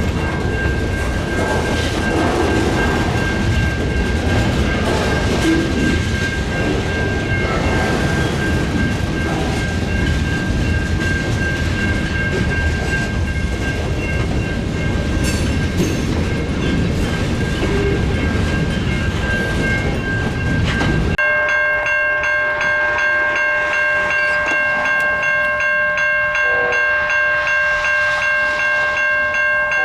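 Freight train rolling past with a steady rumble and rattle of its cars. About 21 s in, it cuts to a diesel locomotive's air horn sounding a long, loud chord of several tones that holds to the end.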